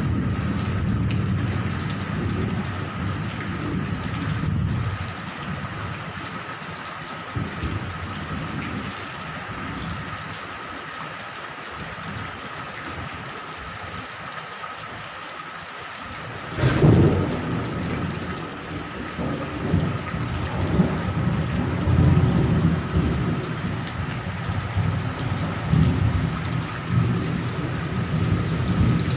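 Steady rain with thunder: low rolling rumbles at first, a sharp thunderclap about seventeen seconds in, then more rolling rumbles.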